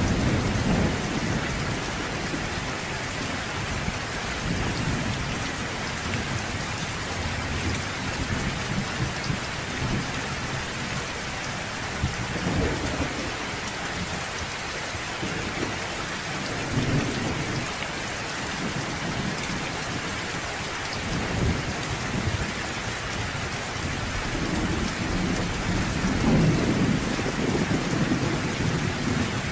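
Steady rain hiss with low rolls of distant thunder swelling now and then, the strongest rumble near the end.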